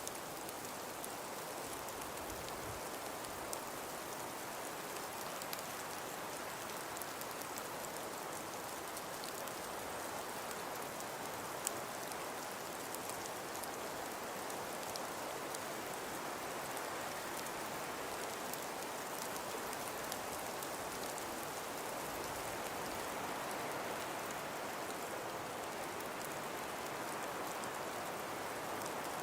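Steady ambience of wind-driven snowfall: an even hiss with many fine ticks of snow or ice grains striking a surface.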